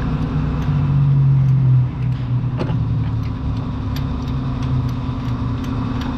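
Toyota Altis 1.6 four-cylinder engine running at idle. Its low hum swells for the first couple of seconds, with a few light clicks over it. The rough idle is put down to weak ignition coils leaking spark.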